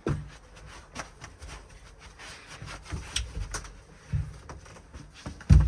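Scattered low thumps and light knocks at irregular intervals, the loudest one near the end.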